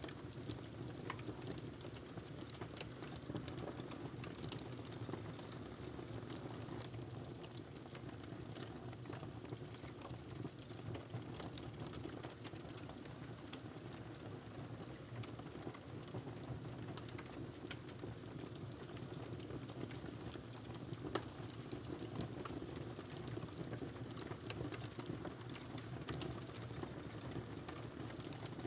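Wood fire crackling in a fireplace: a steady low rumble of flames with frequent small, irregular pops and snaps.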